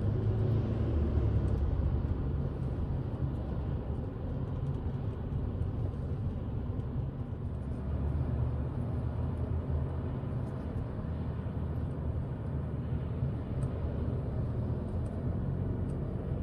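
Steady low rumble of car road and engine noise heard from inside the cabin while driving.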